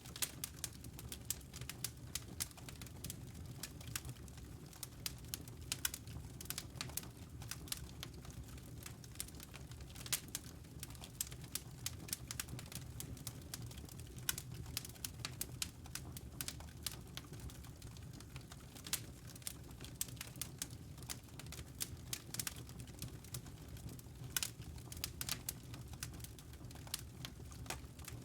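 Wood fire crackling, with quick irregular pops and snaps over a steady low rumble.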